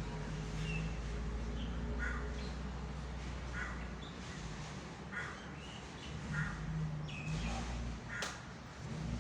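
Crow cawing: short, harsh calls repeated about every one and a half seconds.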